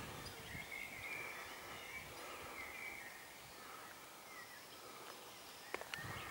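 Faint birdsong, a few drawn-out wavering calls in the first half, over quiet woodland ambience, with a few soft footsteps on a dirt track.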